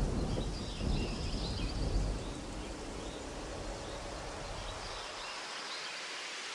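Thunderstorm ambience: a low rumble of thunder dies away about two seconds in, leaving a steady hiss with faint bird chirps.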